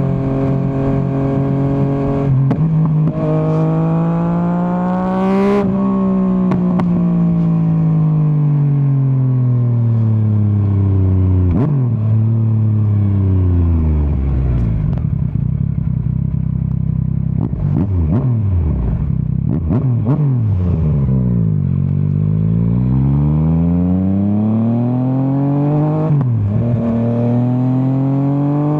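Yamaha MT-09's three-cylinder engine on the move, revving up through a gear change, with a sharp pop at the top about five seconds in. The revs then fall away over several seconds, with pops and crackles on the overrun. It builds again through another shift near the end.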